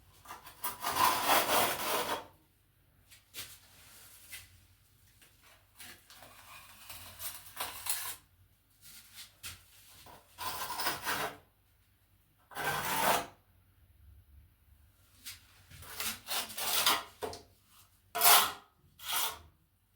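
Trowel scraping tile adhesive against a tiled wall, in separate strokes of half a second to two seconds with pauses between, the strokes coming closer together near the end.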